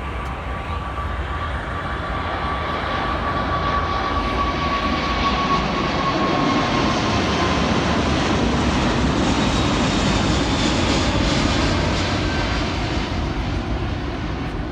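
Airbus A380's four jet engines at takeoff thrust as it departs. A loud roar swells to a peak about two-thirds of the way through, then eases, with a high whine that slowly falls in pitch during the first half.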